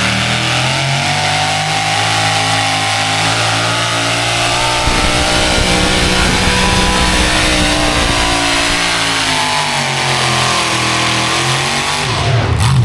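Pulling truck's engine running hard, its pitch slowly rising and falling as the revs change.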